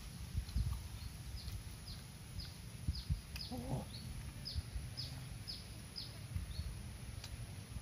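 A bird calling a run of about a dozen short, high notes, each falling in pitch, about two a second. Under it runs a steady low rumble.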